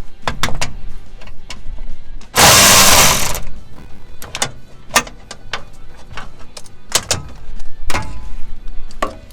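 Irregular metallic clinks and knocks of hand tools working on a truck's underside, some ringing briefly, with a loud hiss lasting about a second around two and a half seconds in.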